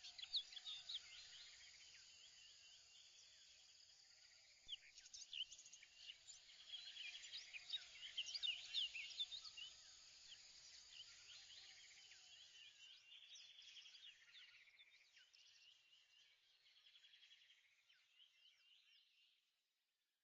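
Faint chorus of birds chirping, many short quick calls overlapping, thinning out and fading away near the end.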